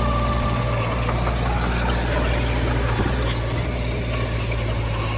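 Diesel engine of heavy earthmoving machinery running steadily, a low constant rumble with a faint whine above it.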